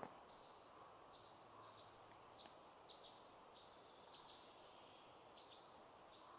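Near silence in a forest: faint, short, high bird chirps scattered throughout over a steady background hiss, with a brief handling rustle right at the start.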